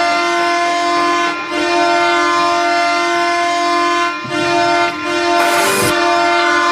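Ottawa Senators goal horn sounding in long, loud, steady blasts separated by short breaks, signalling a goal.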